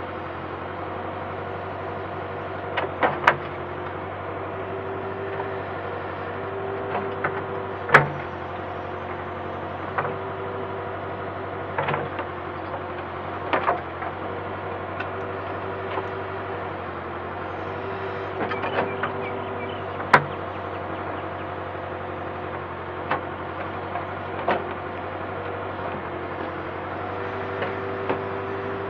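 Backhoe's diesel engine running steadily, broken by sharp clanks every second or two, the loudest about eight and twenty seconds in.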